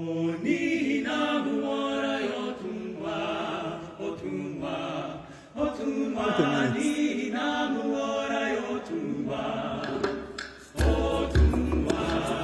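A cappella group singing a song in Igbo in layered vocal harmony, in phrases with short breaks. About eleven seconds in, a deep pulsing bass beat comes in under the voices.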